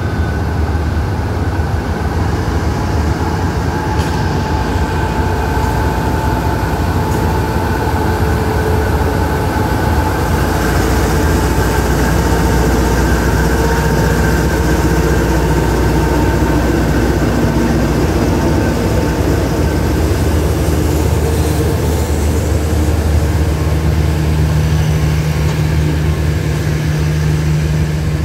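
Alsthom diesel-electric locomotive's engine running under power as it pulls a passenger train out and passes close by, followed by the coaches rolling past on the rails. The sound is loud and steady throughout.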